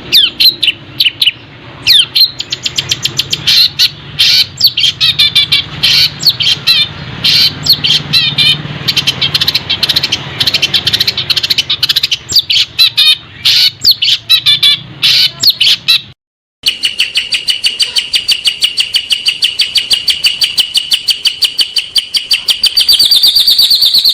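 Songbirds singing a varied run of chirps, whistles and trills over a low hum. About two-thirds through there is a brief cut to silence, then a fast, even string of repeated chips that gets louder near the end.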